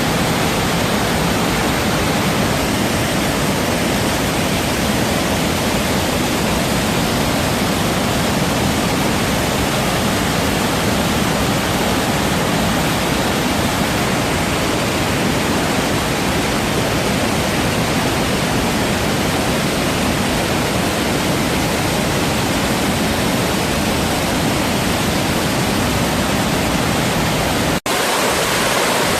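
Waterfall rushing loudly and steadily as a dense roar of falling water. The sound cuts out for an instant near the end and comes back with less deep rumble.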